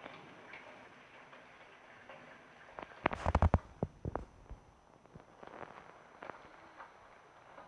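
A quick cluster of sharp clicks and knocks, about a second and a half long, over a faint steady background hiss.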